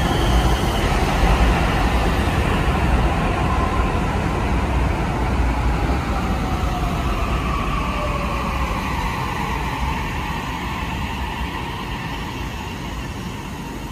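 Shin-Keisei 80000 series electric train pulling into the station and braking. Wheels rumble on the rails while the motors' whine glides down in pitch as the train slows, and the sound eases off toward the end.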